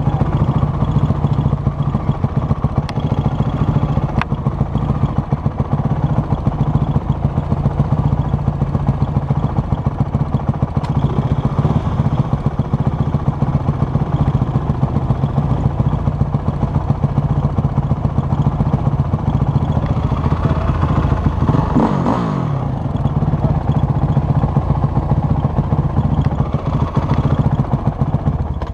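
Off-road vehicle engine running steadily under way, with a brief rise and fall in pitch a little past two-thirds of the way through.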